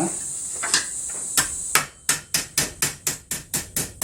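Hammer blows shaping a sheet-metal repair panel: a few spaced strikes, then a quick even run of about four blows a second.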